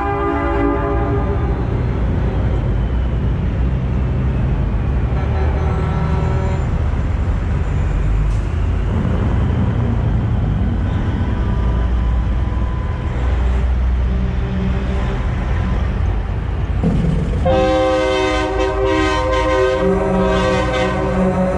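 Heavy diesel truck engines running, with train-style air horns blowing multi-note chords: briefly at the start, faintly about six seconds in, then loudly and repeatedly from about three-quarters of the way through.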